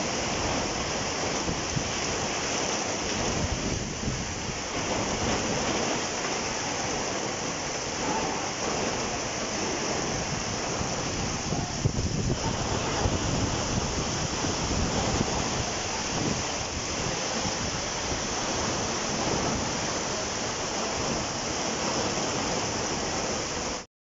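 Steady rushing of running water, a dense unbroken roar that cuts off suddenly near the end.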